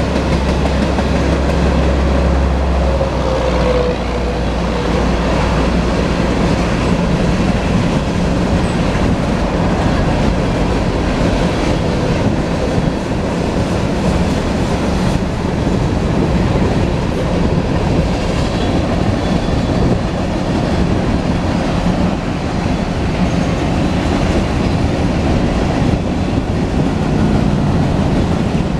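Union Pacific double-stack intermodal freight train rolling past, its steel wheels rumbling and clicking over the rails in a steady, loud flow. A faint squeal slides down in pitch a few seconds in.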